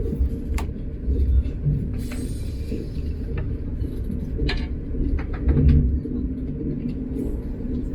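Train running at speed, heard from inside: a steady low rumble with scattered sharp clicks and knocks.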